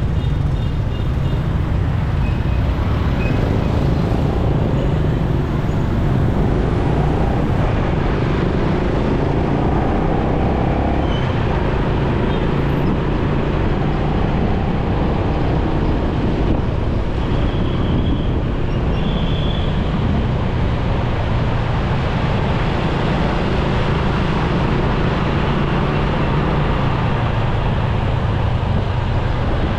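Motorcycle ride through busy city traffic: a steady low rumble of the bike's engine and road noise, with the sound of surrounding vehicles.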